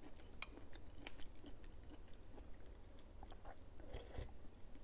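A person chewing soft Kyoho grape jelly, with many small, scattered wet mouth clicks and smacks.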